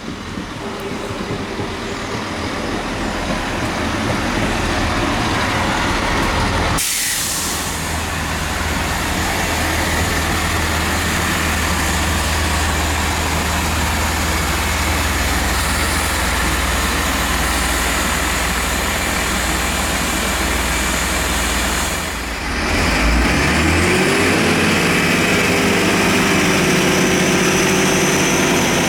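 Diesel train engine running steadily, with a deep hum. Near the end, after a break, a new engine note rises in pitch as the train powers up.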